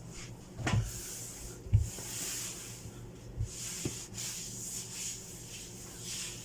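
Hands rubbing spicy kimchi paste into the vegetables, a scraping rub that comes and goes, with a few soft knocks, the sharpest a little under two seconds in.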